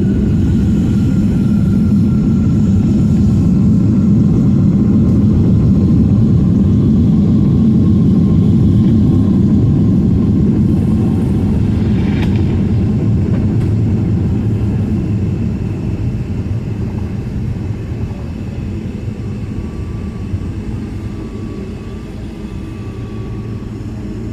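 Boeing 767 jet engine and airframe rumble heard inside the cabin during the landing roll. It is loudest over the first several seconds, then fades steadily as the jet slows.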